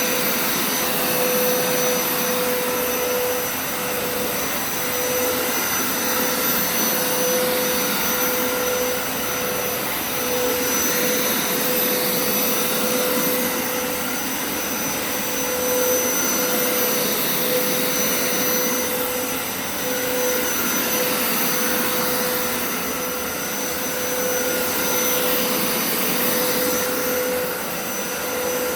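Hoover TurboScrub carpet cleaner running steadily, its suction motor giving a constant whine over a dense rush of air. The level swells and dips slightly every few seconds.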